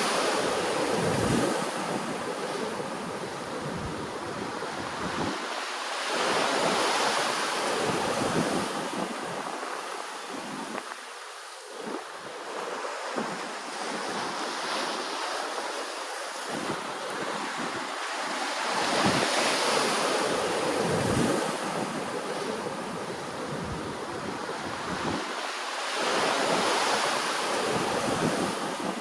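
Ocean waves washing ashore, a continuous wash that swells and fades several times as each wave comes in.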